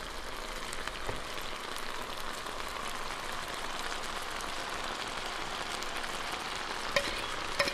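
Electric skillet sizzling steadily as cooked pasta is tipped into the hot stir-fry sauce, with a few light clinks of a fork against the dish near the end.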